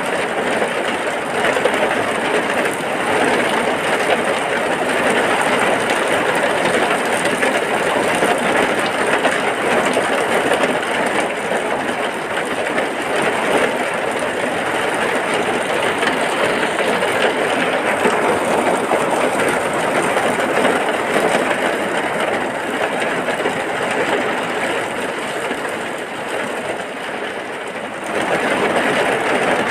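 Heavy rain falling steadily, a dense even hiss. It eases slightly near the end, then comes back stronger.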